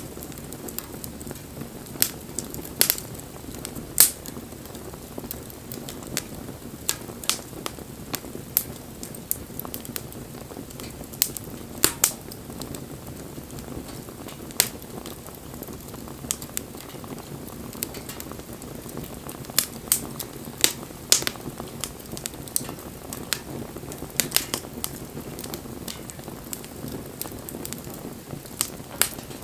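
Wood bonfire burning: a steady low rush from the flames with irregular sharp pops and crackles from the burning wood, scattered and at times bunched two or three together.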